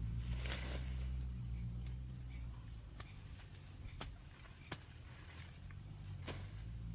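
A steady, high-pitched insect call held without a break, over a low rumble, with a few sharp clicks.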